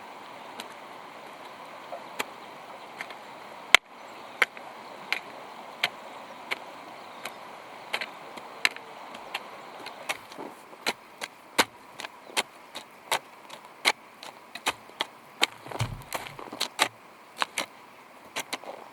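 Hand hoe chopping into garden soil, one sharp strike after another. The strokes are slow and even at first, with one loud blow about four seconds in, then come faster, two or three a second, in the second half.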